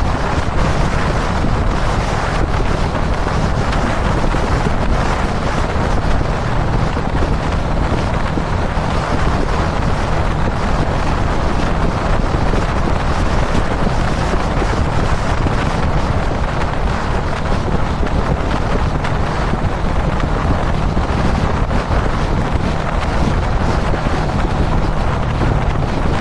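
Strong wind rushing over the microphone as a Kawasaki Dominar 400 cruises at steady speed, with its single-cylinder engine running evenly underneath.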